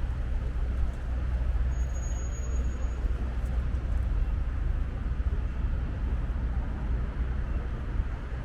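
Steady city street traffic noise: a constant low rumble of road vehicles with no distinct single event.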